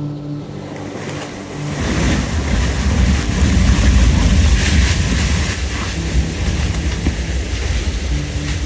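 Blizzard wind gusting hard over the microphone. A heavy low rumble and a rushing hiss build about two seconds in and stay loud to the end.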